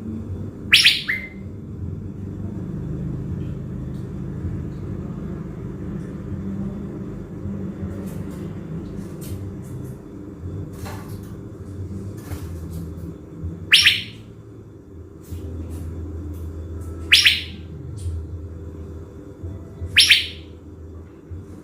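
Caged thanh lam songbird, kept as a decoy bird, calling: four loud, short calls that sweep downward, one near the start and three in the last third, with faint chips between them. A steady low rumble runs underneath.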